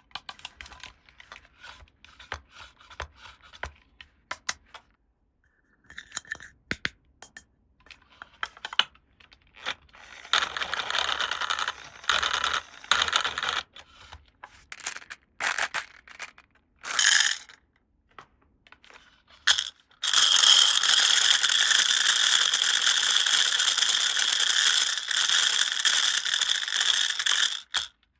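Small plastic toy-playset pieces being handled, with scattered clicks and taps, then several short rasping bursts. In the last third comes a long, steady rasp lasting about eight seconds.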